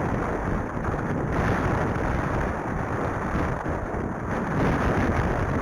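Strong wind buffeting the microphone: a loud, dense low rumble that swells and eases with the gusts.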